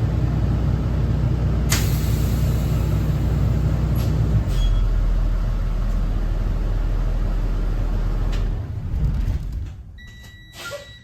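Cummins ISB 6.7 diesel engine of a Thomas Saf-T-Liner C2 school bus running with a loud steady drone, with a couple of sharp clicks. The drone cuts off about nine seconds in, followed by a short electronic beep.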